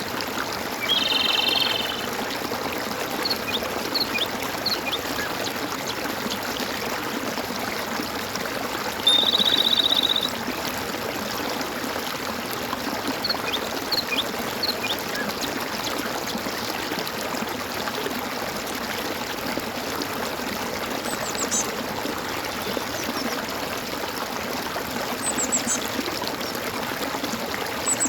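Stream water gurgling and trickling steadily. Over it come two short buzzy trilled calls, about a second in and louder about nine seconds in, and scattered short high chirps from birds.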